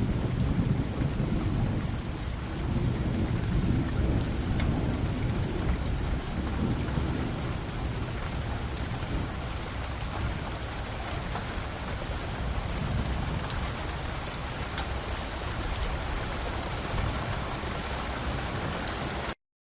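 Thunderstorm: rain falling steadily with low rolling thunder underneath, the rumble heaviest near the start and swelling again a couple of times. The sound cuts off abruptly near the end.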